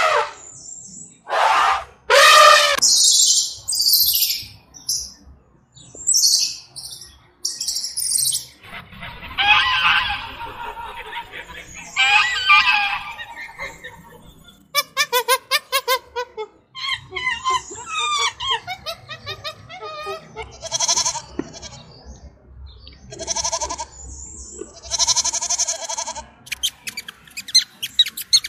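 A run of different animal calls one after another with short gaps between: an elephant trumpeting at the start, geese calling in the middle, and quick high squeaks near the end.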